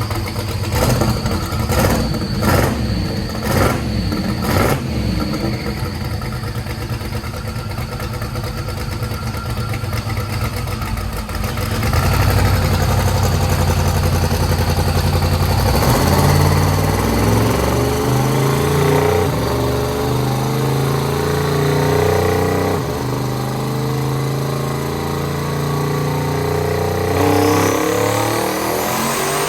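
Twin-turbo Corvette Z06 V8 on a chassis dyno. It idles roughly with a few sharp cracks. About twelve seconds in, it goes into a long, loud pull under load with the boost turned up, its pitch changing in steps.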